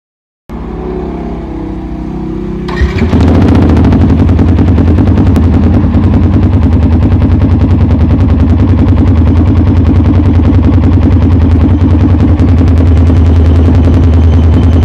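Yamaha R15's single-cylinder engine running through a Scorpion Red Power aftermarket exhaust, giving a deep exhaust note. It runs quieter at first, then about three seconds in becomes much louder, a rapid, even train of exhaust pulses held steady.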